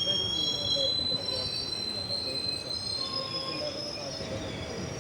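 Steel train wheels squealing against the rails, several high whines overlapping, starting and stopping, over the steady rumble of the moving train; the squeal is loudest in the first second.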